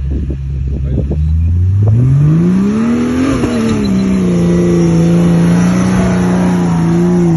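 Jeep Cherokee XJ engine revving up hard for about two seconds, easing back slightly, then held steadily at high revs under load, as when driving through mud. The sound cuts off suddenly at the end.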